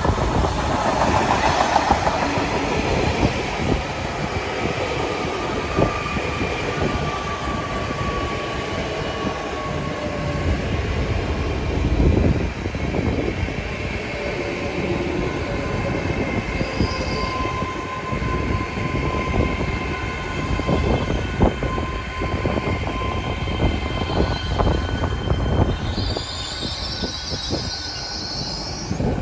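Great Western Railway Hitachi intercity express train slowing into a platform: wheels rumble and click over the rail joints while the brakes squeal in thin tones that slowly fall in pitch. A short hiss comes near the end.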